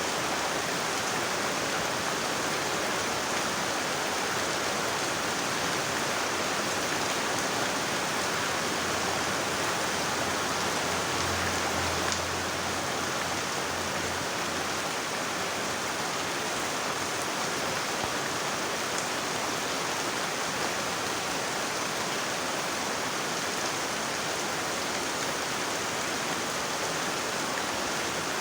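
Heavy rain falling steadily as a dense, even hiss, with a faint low rumble for a few seconds near the middle.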